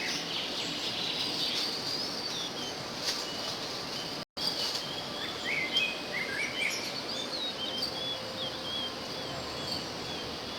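Birds chirping and calling over a steady hiss of insects and forest noise. In the second half one short whistled note repeats, about two or three a second. The sound drops out completely for a moment about four seconds in.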